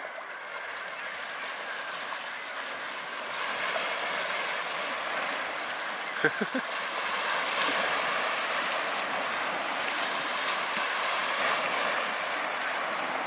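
Small waves washing steadily on the shore; the wash grows a little louder a few seconds in. A single short call or voice sound comes about six seconds in.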